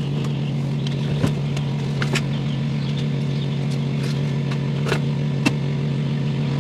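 Truck engine running with a steady low hum, with a few light clicks scattered over it.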